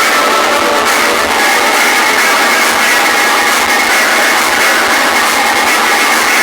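Music blasted at high volume from competing DJ sound-box speaker systems, loud and unbroken, with a thin, bass-less sound.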